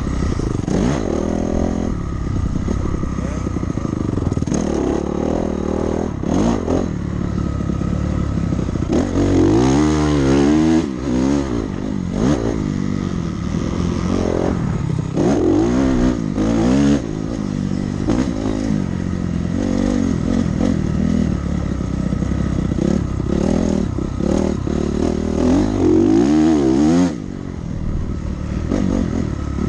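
Dirt bike engine revving hard under load, its pitch climbing and dropping back again and again as the rider works the throttle and gears. The throttle comes off briefly near the end.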